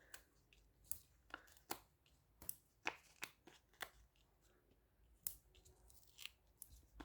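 Soft paper-handling sounds: about a dozen short, irregular clicks and ticks as foam dimensional adhesive pads are peeled from their backing sheet and pressed onto cardstock.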